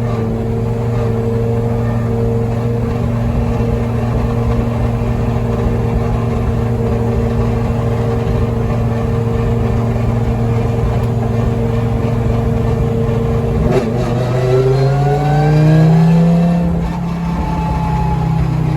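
Audi S1 Pikes Peak's turbocharged 20-valve five-cylinder engine running at steady revs, then, after a short break about three-quarters of the way in, revving up with rising pitch as the car accelerates.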